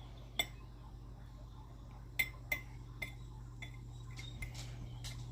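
Metal tweezers tapping and clicking against a dish: a few sharp, light clicks scattered through, over a steady low hum.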